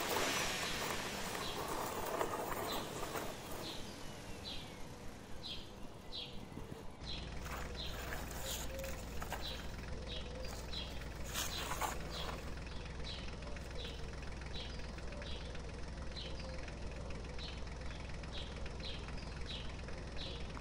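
A bird chirping over and over, short high chirps about twice a second. Plastic toys scrape and knock on dirt ground, with scraping at the start and a few knocks in the middle.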